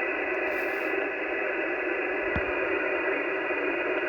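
CB radio receiver hissing with static from its speaker on the 11-metre freeband, no clear station coming through. A single short thump about two seconds in.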